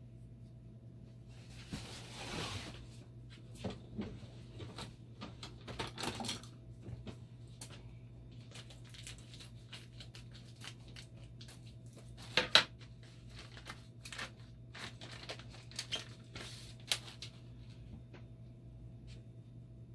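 Scattered clicks, knocks and rustling of hands handling circuit-board parts and panels of a dialysis machine while a power logic board is fitted, with one sharp knock about twelve seconds in. A steady low hum runs underneath.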